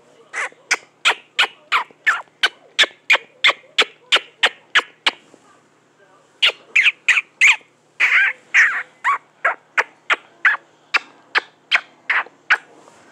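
A rapid run of short bird-like chirps or squawks, about three a second, pausing briefly around the middle and then starting again.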